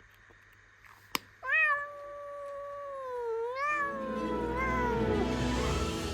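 A cat meowing: a long drawn-out meow starting about a second and a half in, which bends into a second rising meow. It is preceded by a single sharp click, and music comes in underneath midway.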